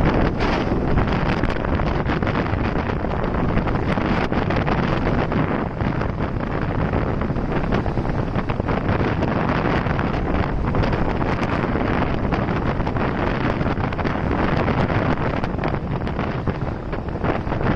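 Steady wind rushing over the microphone of a moving motorcycle, with road noise underneath.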